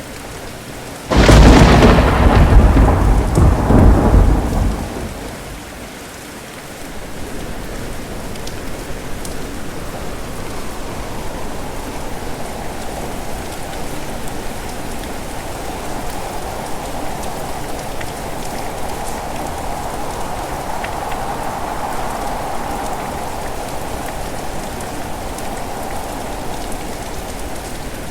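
A sharp thunderclap about a second in, rumbling for a few seconds and fading, over steady heavy rain that keeps falling for the rest of the time.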